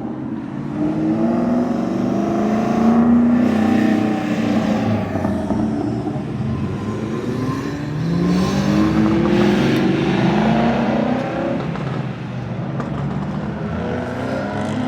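Car engine accelerating hard, its pitch climbing in two long rising pulls, one starting about a second in and another about eight seconds in.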